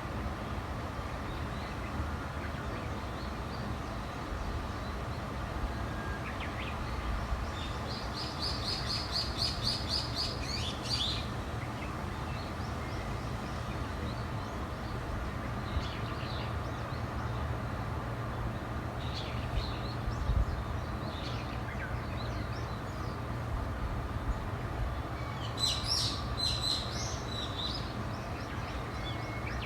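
Wild birds singing: a rapid trill of repeated high notes about eight seconds in, scattered short chirps, and a burst of chirping near the end, over a steady low rumble.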